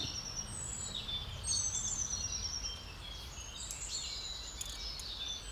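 Several small songbirds singing at once, a mix of short high chirps and quick trilled phrases, over a steady low background rumble.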